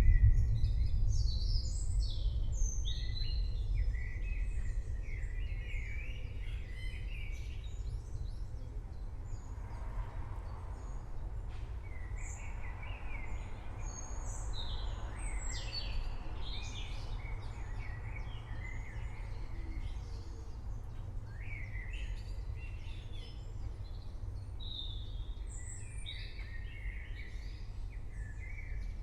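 Forest birds chirping and twittering throughout, many short calls, over a low rumble of distant thunder that fades away over the first few seconds.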